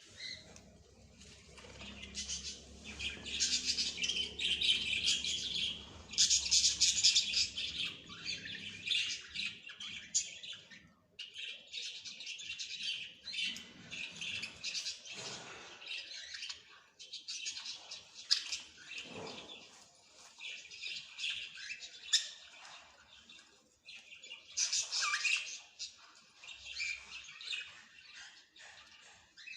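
Small birds chirping and twittering in fast, dense runs of high notes, broken by short pauses about eleven and twenty-four seconds in.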